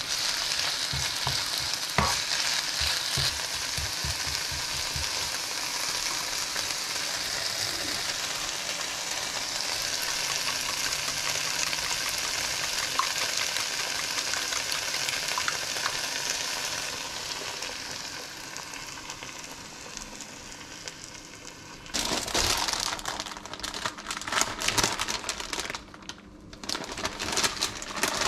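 Spinach sizzling in a nonstick frying pan as it is stirred with a spatula, with light spatula knocks in the first few seconds; the sizzle fades, and from about two-thirds of the way through, a plastic tortilla packet crinkles loudly in irregular bursts as it is handled and opened.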